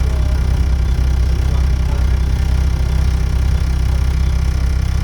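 Volvo B7TL double-decker bus's diesel engine running steadily with a low, even rumble, its exhaust blown.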